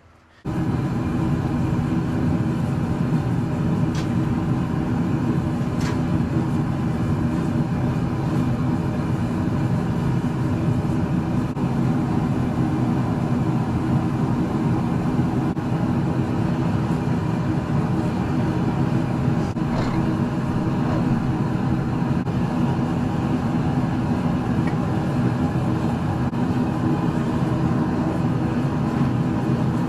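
A forge running steadily, heating a Damascus steel blade for thermocycling before the oil quench, with a few faint ticks over it.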